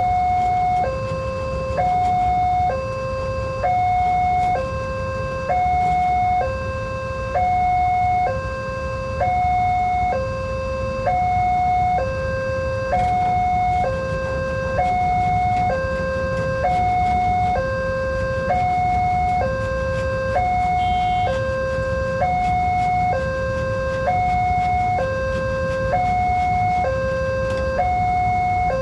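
Railway level-crossing warning alarm sounding its two-tone signal, a higher and a lower tone alternating about once a second each, warning that a train is approaching. A steady low rumble runs underneath.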